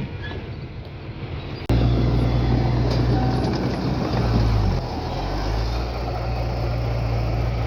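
Heavy diesel engine of earthmoving equipment running steadily. It becomes suddenly much louder a little under two seconds in, and its low note shifts briefly about two-thirds of the way through.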